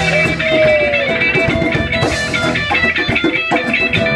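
Live band music led by electric guitar, with bass underneath and a note sliding down about half a second in.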